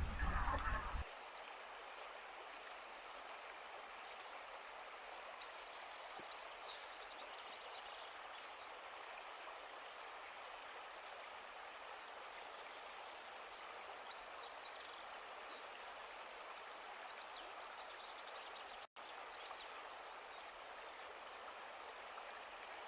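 Outdoor nature ambience: a steady, even rushing noise like running water, with small birds giving short, high, falling chirps and a brief trill over it. A louder sound rises and then cuts out within the first second.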